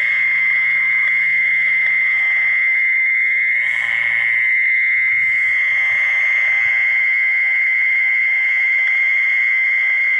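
Frogs calling in a steady, dense chorus: a continuous high-pitched trill that does not let up.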